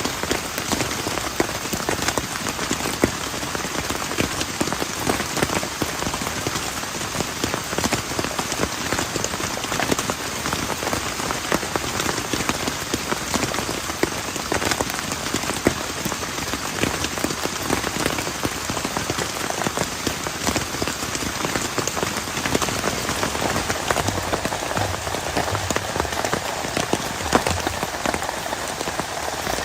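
Heavy rain falling steadily: a dense, even hiss of rain with countless single drops ticking out of it.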